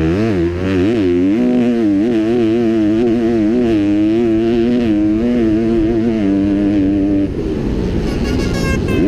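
Kawasaki motocross bike's engine heard from on board under race riding, its pitch rising and falling constantly as the throttle is worked. It backs off about seven seconds in, then picks up again.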